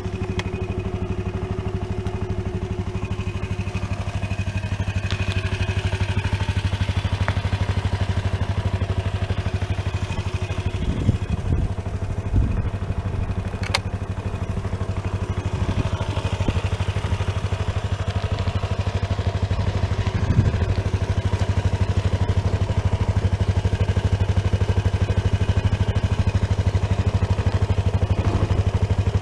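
Piaggio Vespa ET4 125 scooter's single-cylinder four-stroke engine idling steadily, with a few brief low thumps and a single sharp click in the middle.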